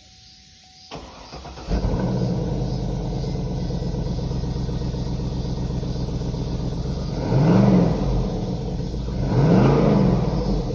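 Second-generation Cadillac Escalade's 6.0-litre V8 cranking and starting on its stock exhaust about a second in, settling into a steady idle, then revved twice near the end, each rev rising and falling back.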